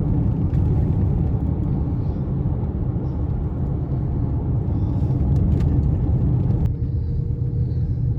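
Car driving along a road: a steady low rumble of engine and tyre noise. The higher hiss above it drops away suddenly near the end.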